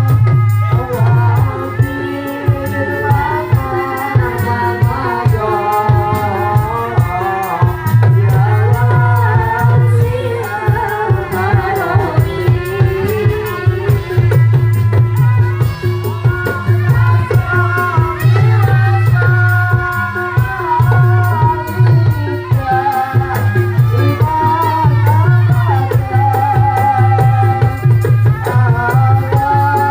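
Live Javanese folk music for a dawangan procession: dense drumming and rattling percussion under a wavering, pitched melody line, with a heavy low tone pulsing beneath.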